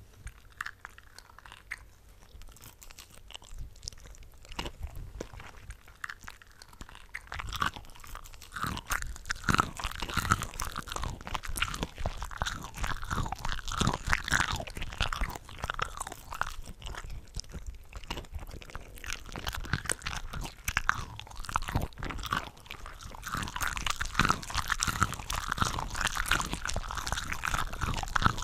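Close-miked chewing and biting of cooked shrimp, several eating tracks layered over one another into a dense run of wet, crunchy mouth sounds. It starts sparse and quiet and grows busier and louder after about eight seconds.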